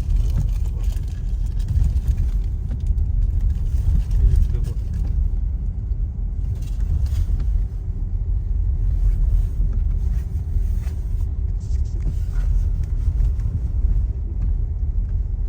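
Steady low rumble of a car driving, heard from inside the cabin: engine and tyre noise with a faint steady hum above it.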